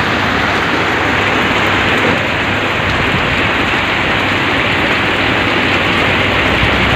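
Heavy rain falling steadily, a loud, even hiss of downpour.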